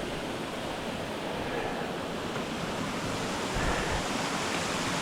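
Steady rush of running water from a river or stream, with low wind buffeting on the microphone.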